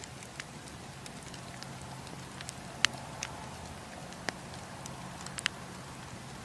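Wood campfire burning with a steady low rumble, broken by irregular sharp crackles and pops of splitting wood, the loudest a little before halfway and again near the end.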